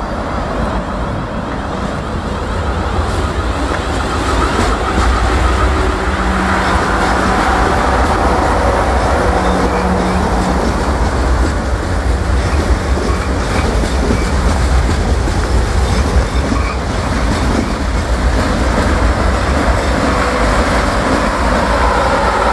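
Class 444 Desiro electric multiple unit running past, a steady rumble of wheels on the rails that grows louder over the first few seconds as the train comes near.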